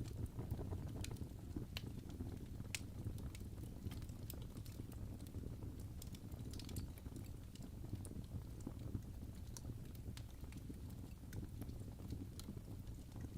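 Fire in a fireplace crackling: irregular sharp pops and snaps scattered over a steady low rumble of the flames.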